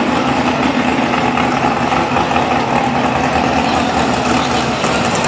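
Engine of a tractor-pull vehicle running loud and steady, holding an even pitch with no revving.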